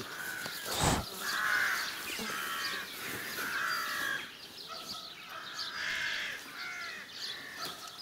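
A bird calling over and over, harsh calls about half a second long every second or two, with a single thump about a second in.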